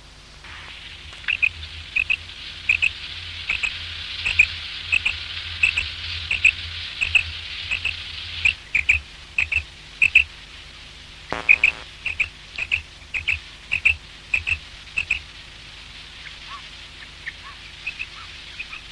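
Common quail calling: short, high notes repeated about every 0.7 s, some in quick pairs, growing fainter after about 15 s. A steady hiss lies under the first half, and there is a brief buzzy sound about 11 s in.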